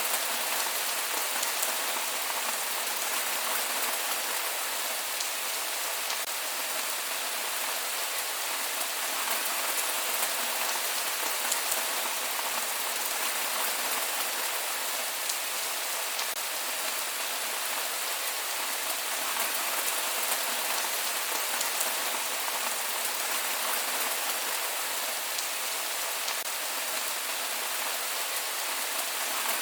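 Steady rain falling on a surface, an even hiss with fine drop ticks and no thunder.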